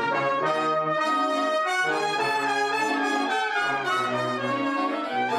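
Big band brass section, trumpets and trombones, playing loud sustained chords that change every half second to a second over low bass notes. These are the closing bars of the arrangement.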